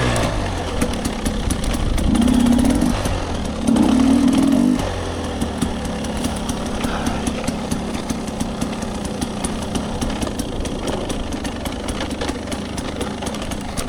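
Dirt bike engine running on a trail ride, with two bursts of throttle in the first five seconds, then a steadier, lower running. Many small clicks run through it.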